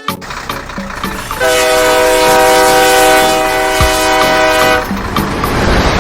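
A horn sounds one long steady blast of about three seconds, starting a second and a half in, over a constant noisy rush.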